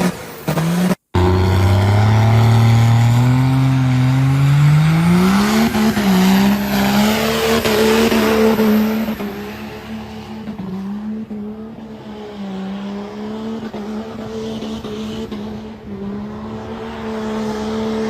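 Pickup truck engine revving: after a brief dropout about a second in, it climbs steadily in pitch for about five seconds, then is held at high revs with the pitch wavering up and down.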